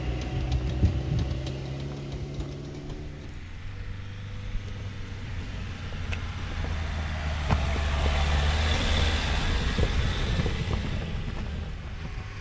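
Lada Niva 1.7 petrol engine running at low revs as the car crawls up a rocky track, with scattered knocks of stones under the tyres. About three seconds in it gives way to a steadier, deeper engine drone of an off-road car climbing a stony hillside track.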